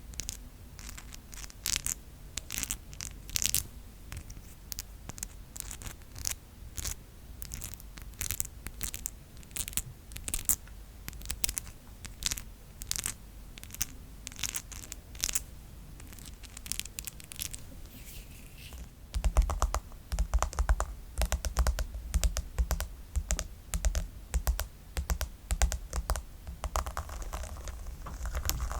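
Fingernails clicking against each other in quick, irregular, sharp clicks like typing. About nineteen seconds in, the sound changes to fingernails tapping on a brush, with fuller, deeper taps.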